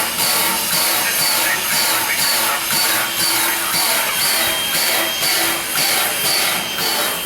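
Steam locomotive No. 89, a 2-6-0, standing with steam up: a loud, steady hiss that pulses about twice a second, typical of the locomotive's steam-driven air pump working.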